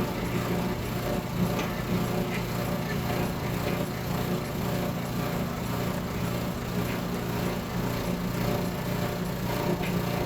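A Dexter commercial dryer's drive motor and belt running with a steady hum, with a few faint clicks. The running still has an unwanted noise, which is being cured by adjusting the drive.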